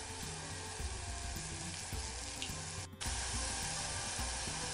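Turkey thighs and ginger slices sizzling in a hot frying pan, a steady hiss that drops out for an instant about three seconds in.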